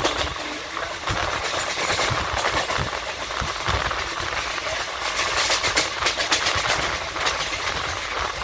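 Train in motion, heard from on board: a steady running rumble with wheels clattering irregularly over the track.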